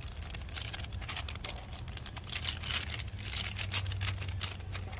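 Plastic packaging crinkling and rustling in quick, irregular crackles as an MRE entrée pouch is handled inside its flameless ration heater bag.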